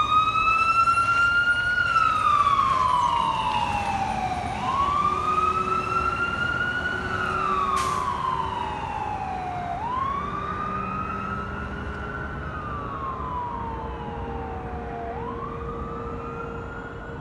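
Fire apparatus siren in a slow wail, each cycle rising quickly and falling slowly over about five seconds, fading as the truck moves away.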